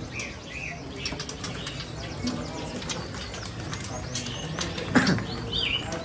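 Caged songbirds fluttering their wings in a rapid patter, with a few short chirps in between. A single louder knock about five seconds in.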